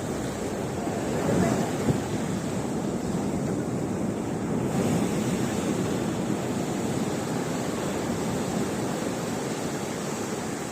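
Sea waves breaking and rushing up the beach, surging louder about a second and a half in and again around five seconds, with wind buffeting the microphone.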